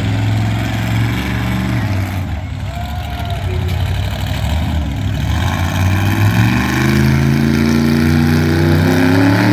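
Monster truck engine running loud and steady, easing off, then revving up with its pitch climbing over the last few seconds.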